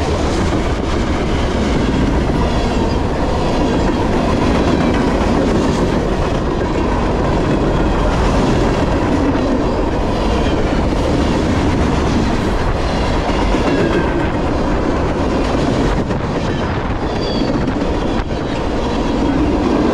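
A CSX freight train's tank cars and covered hoppers rolling past in a steady, loud rumble, with wheels clicking rhythmically over rail joints.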